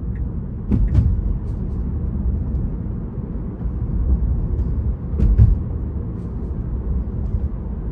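Steady low road and tyre rumble heard inside a Tesla's cabin as the car drives at speed, with a few brief clicks about a second in and again a little past five seconds.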